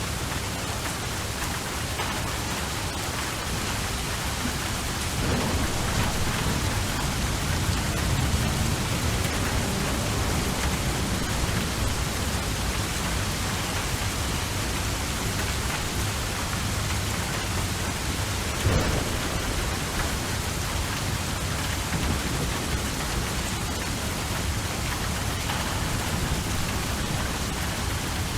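Steady heavy rain with thunder: a low rolling rumble swells about five seconds in, and a single sharp crack comes about two-thirds of the way through.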